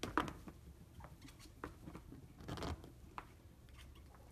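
Kittens' paws and claws scrabbling and tapping against a window pane: a quick series of sharp taps and scratchy scrapes, with the longest scrapes just after the start and about two and a half seconds in.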